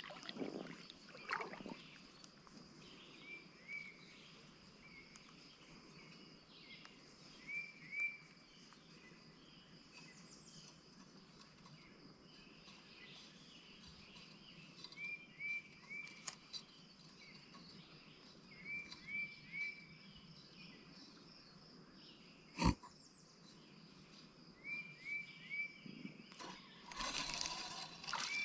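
Quiet outdoor ambience: a bird repeats a short phrase of two or three quick chirps every few seconds over a steady thin high-pitched hum. A single sharp knock comes about two-thirds of the way through, and a short rush of noise near the end.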